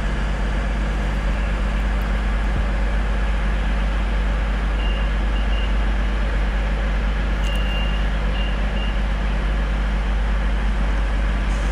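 Class 220 Voyager diesel multiple unit idling at the platform: a steady low diesel hum. A few short high beeps sound about halfway through.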